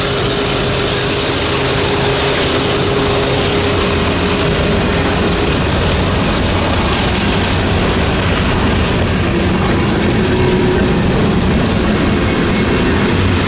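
A train running by on the track, loud and steady, with a steady whine that stops about five and a half seconds in.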